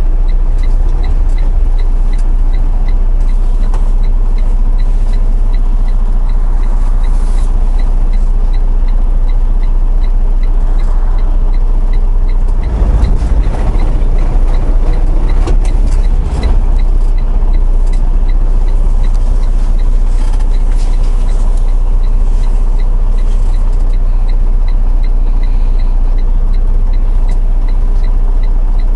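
Steady engine drone and road noise heard from inside a semi-truck cab while driving, strongest in a deep low rumble. A couple of louder rumbling stretches come in the middle.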